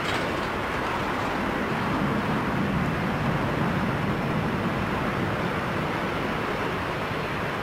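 Aircraft engine noise at an airport runway: a steady, rushing rumble that swells slightly a couple of seconds in.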